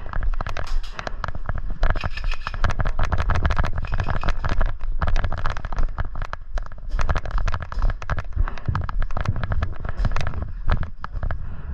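Rapid, irregular popping of airsoft guns firing, many shots in quick succession, over a steady low rumble.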